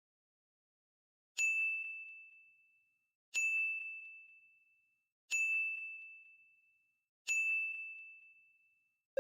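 Four identical bell-like dings, about two seconds apart, each a single high tone that rings out and fades.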